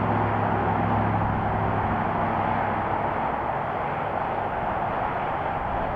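Volkswagen Golf R Mk6's turbocharged 2.0-litre four-cylinder idling steadily through a newly fitted valvetronic cat-back exhaust. The low engine hum fades about halfway through, leaving a steady hiss.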